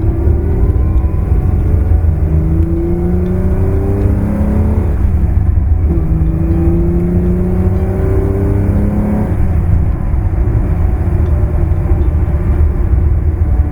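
Ferrari 365 GT4 2+2's V12 engine pulling under load while driving. Its pitch climbs steadily, drops back at an upshift about six seconds in, climbs again, then settles into a steady low rumble.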